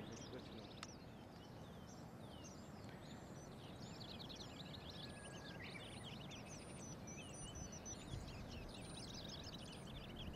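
Small birds singing, with many quick chirps and trills overlapping, faint over a low steady outdoor rumble.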